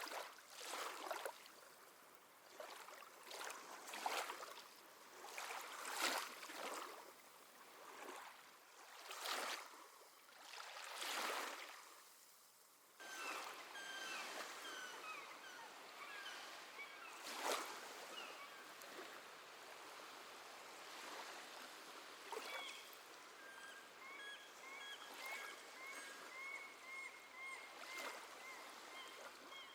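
Small sea waves lapping and washing in, in short surges every second or two. About halfway through the sound changes suddenly to a steadier wash of water with many quick, high bird chirps over it.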